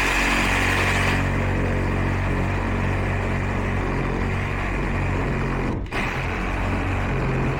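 Reciprocating saw (Sawzall) running steadily as it cuts through copper refrigerant tubing at a heat pump's reversing valve, with a momentary break about six seconds in.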